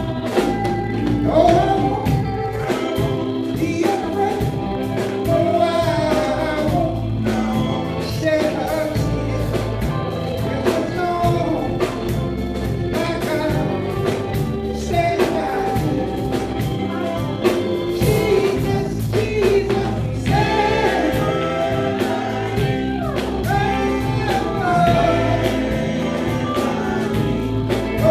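Gospel vocal group singing with band accompaniment: voices carrying the melody over a steady bass line and a regular drum beat.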